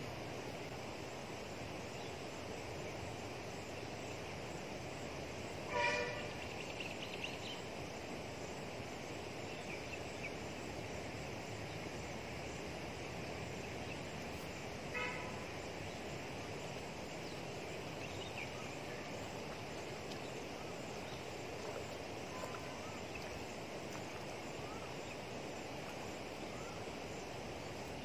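Steady outdoor background noise with two short, loud bird calls about nine seconds apart, and a few faint higher chirps between them.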